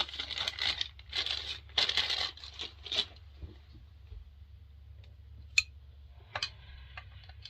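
Rustling and crinkling handling noise in several short bursts, then two sharp clicks or taps a couple of seconds later.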